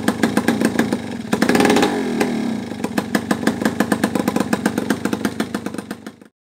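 Yamaha F1ZR single-cylinder two-stroke engine idling with a popping exhaust beat through a home-made cardboard exhaust, revved briefly about a second and a half in and falling back to idle. The sound cuts off suddenly near the end.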